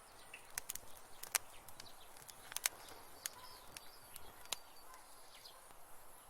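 Wood fire crackling in a fireplace: irregular sharp pops and snaps over a faint hiss, the loudest pop about two and a half seconds in.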